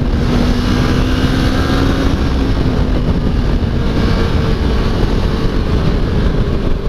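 Motorcycle engine running steadily under power in third gear at track speed, leaning through a long corner, heard onboard over a loud, even rush of noise.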